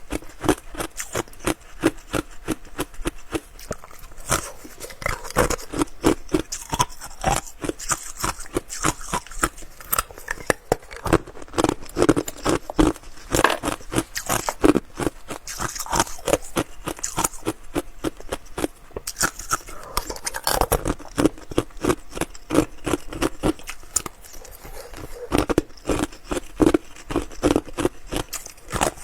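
Close-miked chewing and crunching of ice: a dense, continuous run of crisp cracks and crackles, with louder bursts of bites every second or two.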